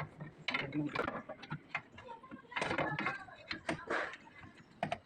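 Metal parts clinking and knocking as they are handled, a string of short sharp clicks, with a voice talking in between.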